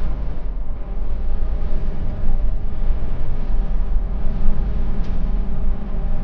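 Steady low rumble of a moving vehicle, with an even background hiss.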